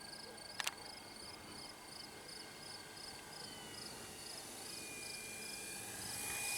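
Crickets chirping faintly in even pulses, about two a second, fading out about three and a half seconds in. A sharp double click comes just over half a second in.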